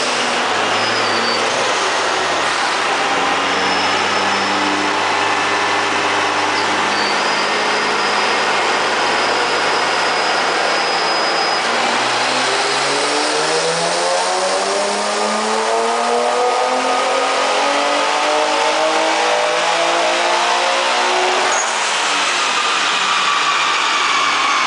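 Twin-turbocharged Nissan 350Z V6 running at light throttle, its pitch shifting in steps, then pulled at full throttle with the engine note climbing steadily for about nine seconds. Near the end the throttle snaps shut with a sharp release from the blow-off valve, and the revs fall away.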